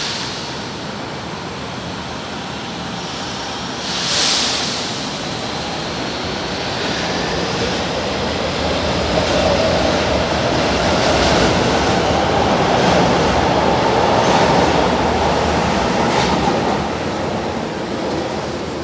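São Paulo Metro Line 3 train running through the station, its rumble building to a peak mid-way and easing near the end, with a short hiss about four seconds in.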